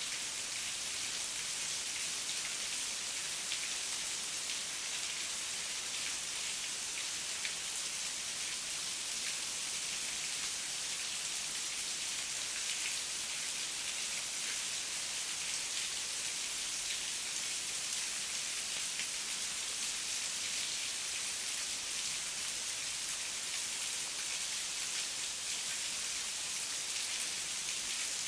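Heavy rain falling steadily: an even hiss of many drops, bright in tone and without a break.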